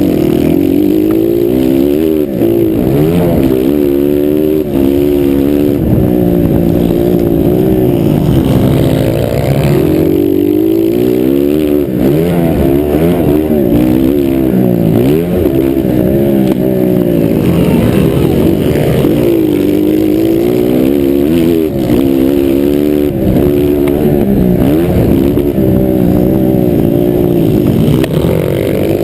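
Several motocross bikes racing, their engines revving and rising and falling in pitch as they accelerate and shift. The sound is loud and continuous, with more than one engine heard at once.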